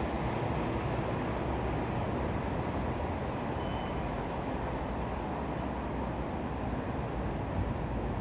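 Freight train rolling away along the tracks: a steady rumble of wagons on the rails that slowly fades.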